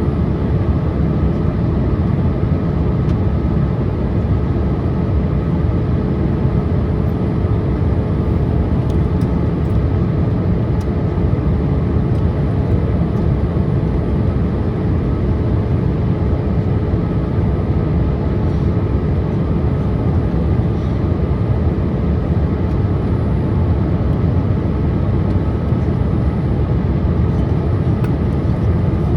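Steady cabin roar of a Boeing 787-8 Dreamliner on descent, heard from a window seat: jet engine noise and rushing airflow, with a faint steady hum running through it.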